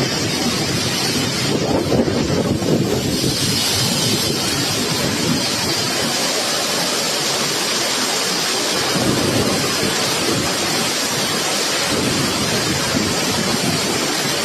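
Storm noise: heavy rain and wind with a low rumble, loud and steady, swelling slightly about two seconds in.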